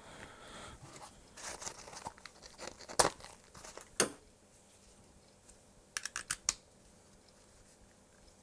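Handling noise from a small audio tester and its cables being set up: rustling, then two sharp clicks about three and four seconds in and a quick run of four clicks near six seconds.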